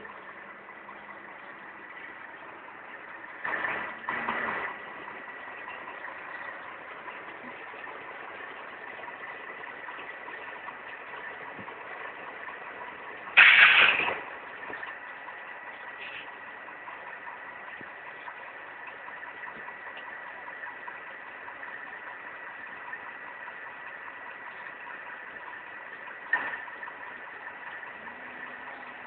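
An engine running steadily at idle with a faint steady whine, broken by three short louder bursts of noise; the loudest comes about halfway through.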